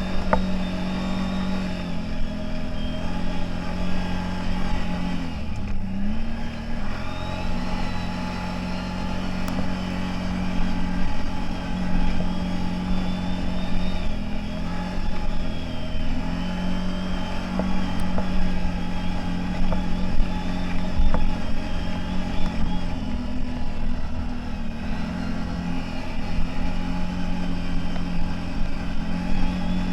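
CFMoto 1000 off-road vehicle's engine running steadily under way. Its pitch dips briefly a few times as the throttle eases, then picks up again.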